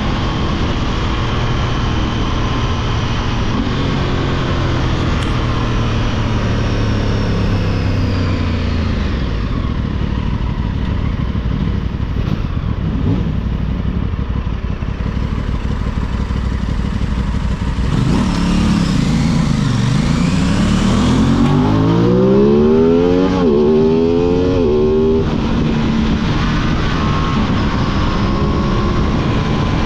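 Aprilia 660 parallel-twin motorcycle engine running. Its revs sink over the first few seconds, then about two-thirds of the way in climb in one long rising pull for several seconds before dropping back suddenly.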